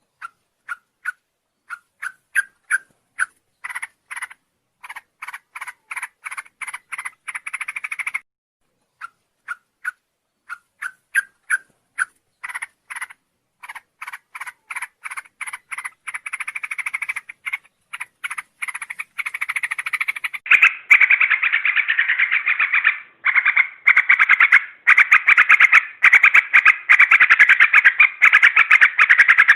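Yellow-vented bulbul calling in a long series of short, clipped notes that come faster and closer together, running into a continuous rapid chatter about two-thirds of the way through.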